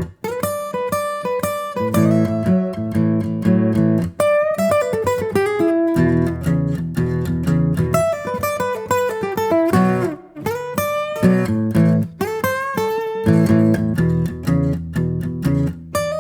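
Background music led by plucked acoustic guitar, with a steady run of picked notes over low bass notes.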